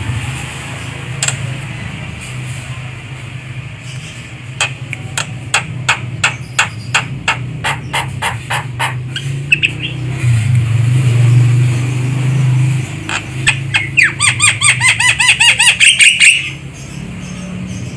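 Javan myna calling: a series of sharp clicks, then near the end a fast run of ringing chirps. A steady low hum runs underneath.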